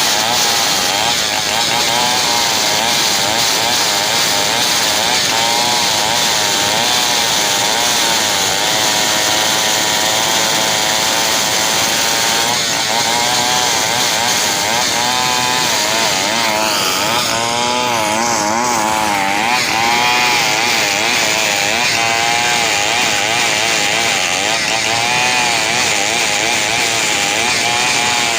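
Two-stroke chainsaw running at high revs while cutting a log, its engine pitch wavering up and down as the load on the chain changes.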